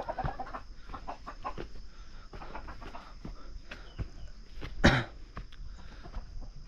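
Domestic chickens clucking in a run of short calls over the first couple of seconds. There is one sharp knock about five seconds in.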